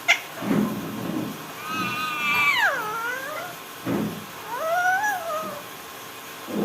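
Parrot giving two drawn-out pitched calls, the first sliding down then back up, the second rising and falling, with short low sounds between them.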